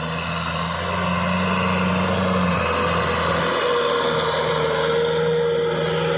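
Kubota tractor engine running steadily, its tone shifting slightly about three and a half seconds in.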